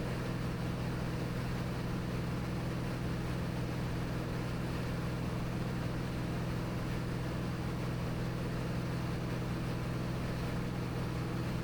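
Cirrus SR22T's turbocharged six-cylinder engine and four-blade propeller droning steadily in flight, heard from inside the cabin: a constant low hum with a strong pitched tone and an even rush of noise over it.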